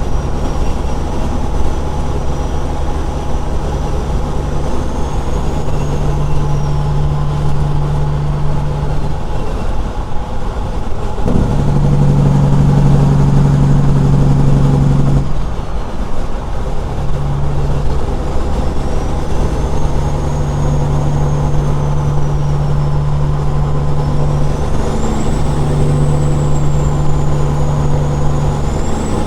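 Straight-piped Caterpillar 6NZ inline-six diesel of a semi truck running on the road with a steady low exhaust drone. About eleven seconds in it gets louder and higher-pitched for a few seconds, then falls away briefly and settles back into the drone. A faint high whine rises and falls above it.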